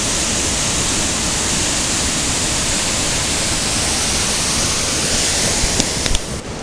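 River in flood rushing through a narrow rock canyon: a loud, steady roar of whitewater. A couple of short clicks come near the end, and then the sound drops suddenly to a quieter hiss.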